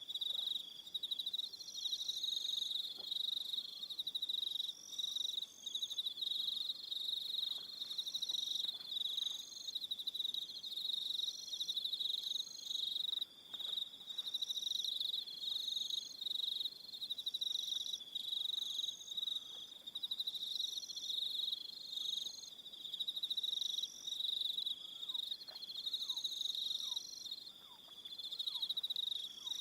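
Evening chorus of crickets: a dense, steady high-pitched trill, with higher chirps from other crickets coming and going over it. A few faint short falling notes sound near the end.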